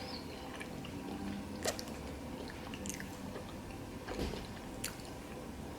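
A person chewing soggy french fries close to the microphone, with a few faint wet mouth clicks.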